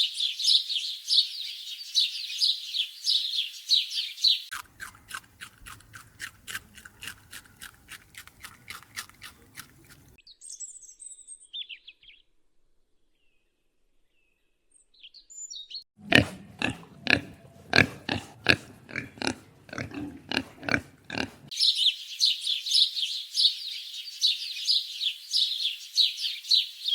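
Animal calls in several cuts: rapid high-pitched chirping, then an even run of quick clicks, a few faint high chirps, a stretch of loud rhythmic grunt-like pulses, and rapid high-pitched chirping again.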